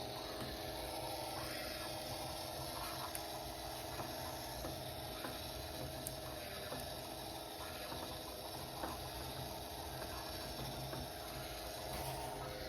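DIY PET-bottle filament machine running: a small motor hums steadily at an even pitch, with a few faint ticks.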